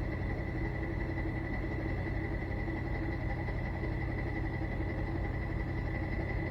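Truck engine running steadily at idle: a constant low drone with a thin, steady high whine over it and no revving.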